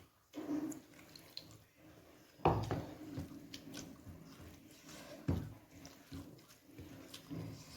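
Close-up eating sounds: wet chewing and smacking mouth sounds of someone eating rice with dal and vegetable curries, with two louder sudden bites or smacks about two and a half and five seconds in.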